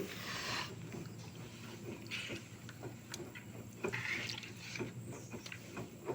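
LG direct-drive washing machine in its wash phase: water swishing softly in the drum in intermittent swells, with a few light knocks and a faint steady hum.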